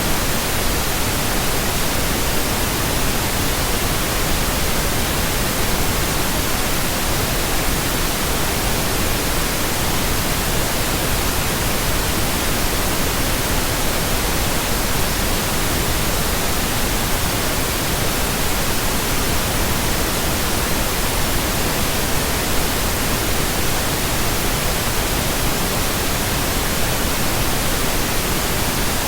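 Steady synthetic pink noise: an even, unchanging hiss across the whole range.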